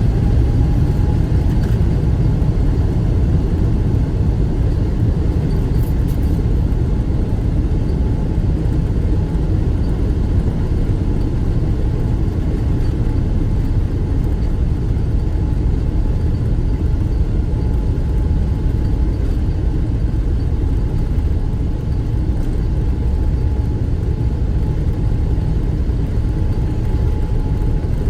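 Jet airliner's engines at takeoff power: a steady low rumble with a thin, steady whine held above it.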